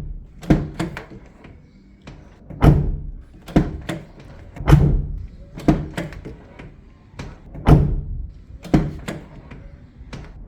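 Car door shut again and again, each closing a cushioned thunk about every two to three seconds, with lighter clicks in between. An add-on rubber door damper softens each impact.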